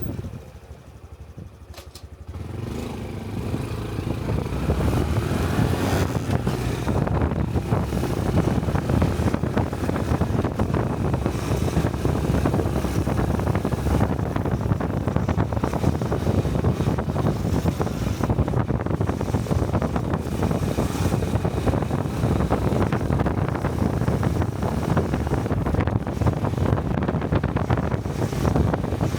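Small single-cylinder Honda Cub motorcycle engine, quiet for the first couple of seconds, then pulling away with its pitch rising over the next few seconds and running on at a steady cruise with wind rushing over the helmet-mounted microphone.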